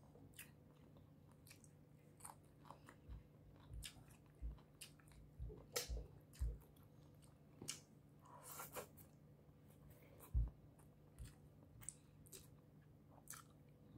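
A person eating shrimp and cucumber close to the microphone: quiet chewing with scattered crunches and mouth clicks, and a few low thumps, the loudest about ten seconds in.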